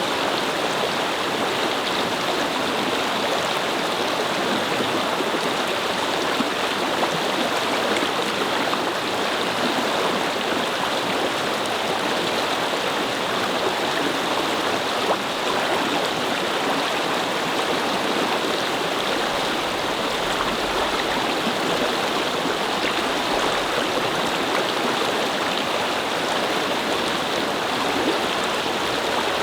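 Brook water babbling and flowing steadily, an even rushing with no breaks. A faint low rumble comes in about two-thirds of the way through.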